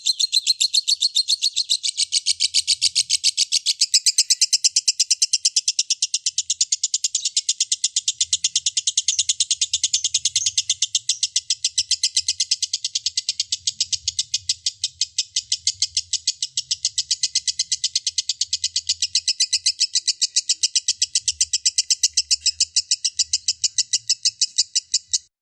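Lovebird giving a long unbroken 'ngekek' call: a fast, even, high-pitched chattering run of sharp notes that goes on without a pause and cuts off suddenly at the very end.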